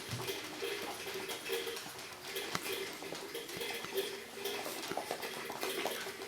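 Five-week-old Shih Tzu puppies moving about, with many light irregular clicks and taps.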